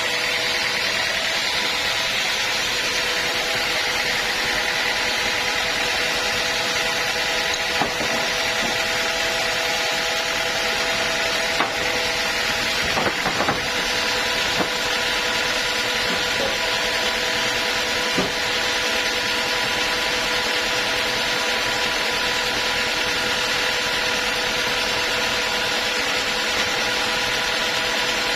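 Sawmill saw running steadily through a teak log, a constant mechanical whine with a few light knocks and ticks in the middle.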